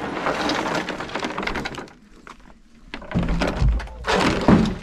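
A heavy object being set down and shifted on the floor: scraping and rustling, then several heavy knocks and thuds from about three seconds in, the loudest near the end.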